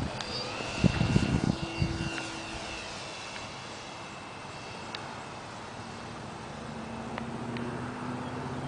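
Radio-controlled model airplane's motor and propeller whining in flight. The pitch drops over the first couple of seconds as it passes, then settles into a steadier drone. A few low thumps come early on.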